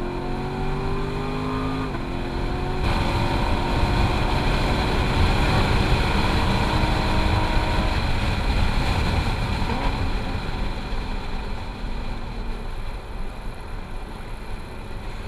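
C7 Corvette Grand Sport's 6.2-litre V8 heard from inside the cabin under hard acceleration on track. Its pitch climbs, steps down once about two seconds in as the automatic shifts up, then climbs slowly again before easing off after about eight seconds.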